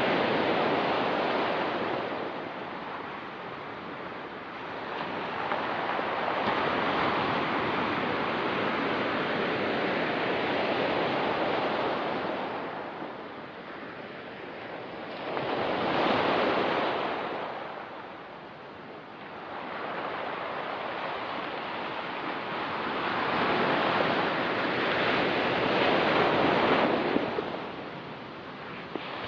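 Ocean surf on a rocky pebble beach, the noise of the water swelling and falling back about four times as waves break and wash in.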